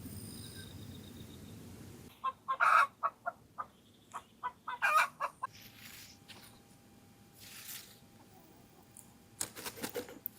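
A bird calling: a quick run of loud, short calls about two seconds in, and another short run near the end, after a low rumble that stops abruptly about two seconds in.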